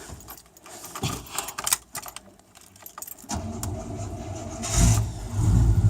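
Keys jingling and clicking in the ignition, then the 1989 Chevy K5 Blazer's V8 cranks on the starter about three seconds in. It catches within about a second and a half with a loud burst and settles into a steady run through its Flowmaster muffler. This is a cold start below freezing, and it fires easily.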